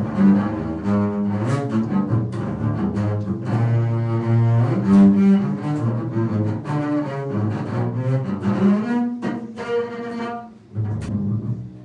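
Solo cello playing a contemporary piece: a run of bowed notes with sharp attacks. It drops away briefly near the end before another note sounds.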